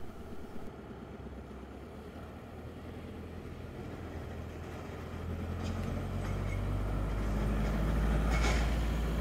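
Hamburg S-Bahn electric train approaching over a set of points: a low rumble that grows steadily louder through the second half, with a few short clacks of the wheels over the rail joints.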